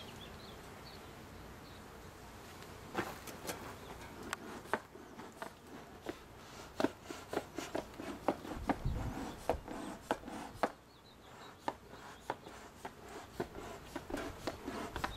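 Wooden beehive boxes and frames being pried apart and scraped: irregular clicks, knocks and scrapes starting about three seconds in, with one duller thump near the middle. Honeybees buzz under it.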